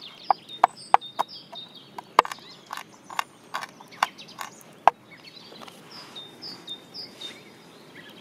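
Knife chopping whole peppercorns: a run of sharp, irregular knocks of the blade for about five seconds, then stopping. Small birds chirp throughout.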